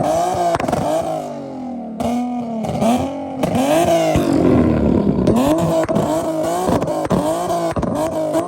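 Nissan VQ V6 sports-car engine revved hard over and over, the pitch sweeping up and falling back, faster toward the end, with sharp exhaust pops between the revs.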